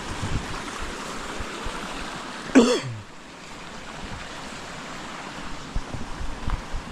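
Small stream running steadily, with a short grunt from a person about two and a half seconds in. The water sound drops a little just after it.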